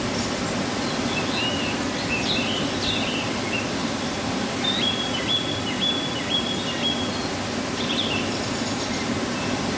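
A waterfall rushing steadily, with a small bird chirping over it in short phrases and a run of high whistled notes in the middle.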